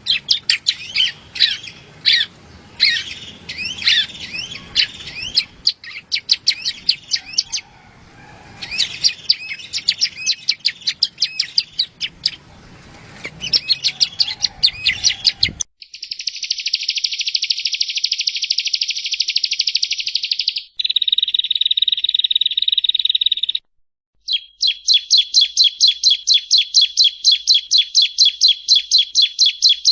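Prenjak rowo (yellow-bellied prinia) song: rapid high chirping notes for about the first half. It then switches abruptly to dense buzzing trills and, after a short break, a fast run of repeated notes, about five a second, that grows louder.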